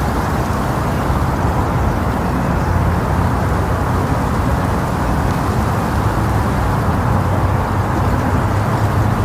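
Wind blowing across the microphone: a loud, steady, low rushing rumble.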